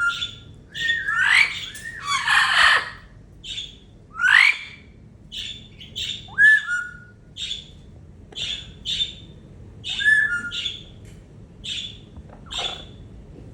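Blue-fronted Amazon parrot calling: a steady string of short chirps, with several rising whistled notes and a few louder, harsh squawks near the start.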